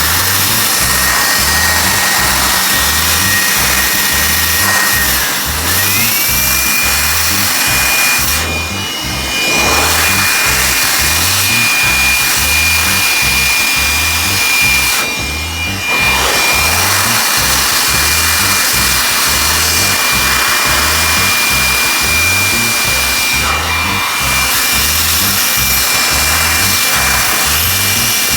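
A power tool's motor whirring steadily with a high whine, cutting out briefly three times, over background music with a steady beat.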